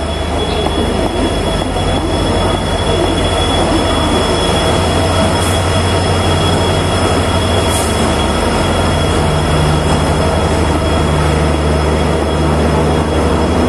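Diesel locomotive and its passenger coaches rolling slowly in along a station platform: a steady low engine drone under the rumble of the wheels, with a thin, steady squeal of wheels and brakes as the train slows to a stop.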